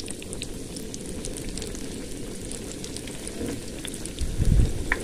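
Breadcrumb-coated chicken bread lollipop deep-frying in hot oil: a steady sizzle with scattered small crackles and pops. A low thump comes near the end.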